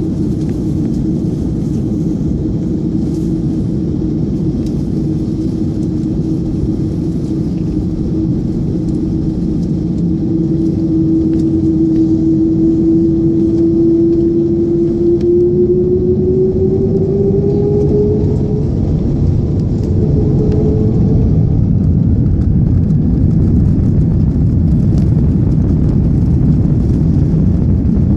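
Airbus A330 airliner heard from inside the cabin during takeoff: a loud, steady low rumble, with an engine tone that slowly rises in pitch through the middle and fades out about twenty seconds in, as the rumble grows a little louder.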